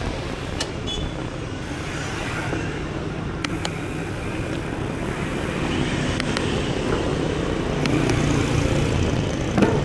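Steady rumbling wind and rolling noise from a mountain bike ride on a chest-mounted camera, with a few light clicks and rattles and a brief knock near the end.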